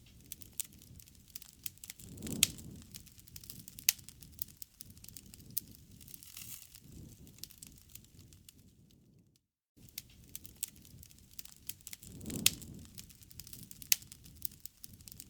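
Wood campfire crackling, with many sharp pops and snaps over a low rumble of burning. A brief dropout comes about nine and a half seconds in, after which the same stretch of crackling repeats.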